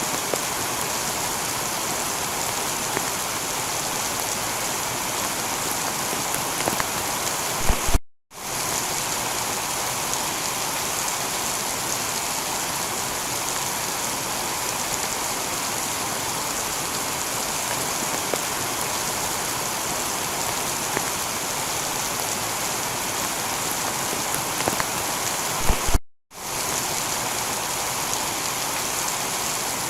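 Heavy, steady rain pouring onto a tiled roof, with occasional sharper drip ticks. The sound cuts out completely for an instant twice, about 8 seconds in and again near 26 seconds.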